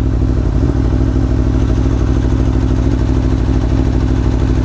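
Aprilia Tuono V4 1100 Factory's V4 engine idling steadily at a standstill.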